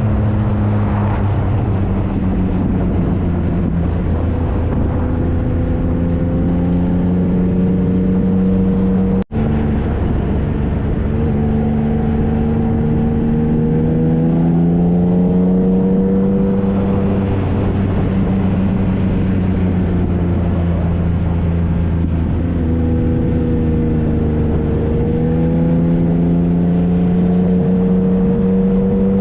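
2013 Triumph Trophy SE's 1215 cc inline-three engine under way, its pitch rising repeatedly as it pulls through the gears and dropping back at each shift, with steadier cruising stretches between. The sound cuts out for an instant about nine seconds in.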